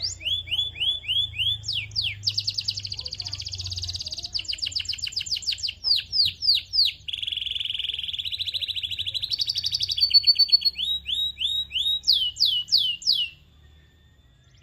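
Canary singing: fast trills of repeated chirps alternating with runs of downward-sweeping whistled notes, the pattern changing every second or two, over a faint low hum. The song stops about thirteen seconds in.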